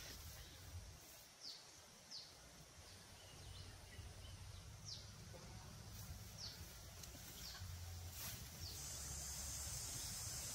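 A bird calling with short, high chirps that fall in pitch, repeated every second or so. A steady high hiss comes in near the end.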